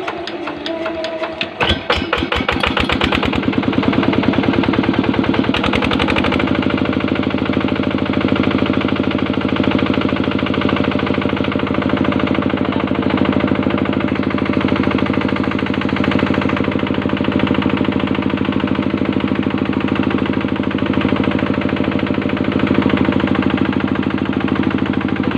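Yanmar diesel engine starting: rapid firing strokes begin about two seconds in as it catches. It picks up briefly about six seconds in, then runs steadily with an even diesel knock.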